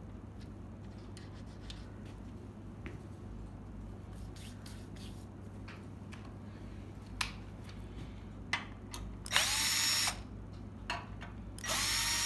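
Power drill run in two short bursts in the second half, each rising in pitch as it spins up, after scattered light clicks and taps.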